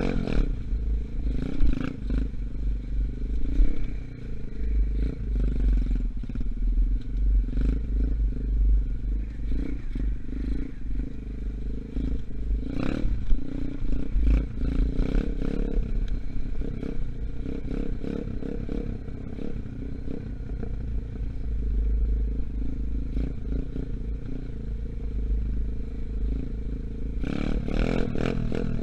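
125cc Gunshot dirt bike engine running while the bike is ridden, still in its break-in period, its note rising and falling. A heavy low rumble runs underneath, with scattered clattering knocks.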